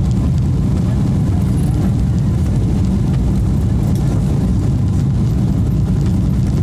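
Steady low rumble inside a Boeing 777-300's passenger cabin: engine and airflow noise, unchanging.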